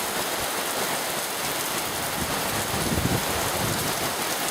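Heavy rain pouring down in a steady hiss, with some low rumbling around the middle.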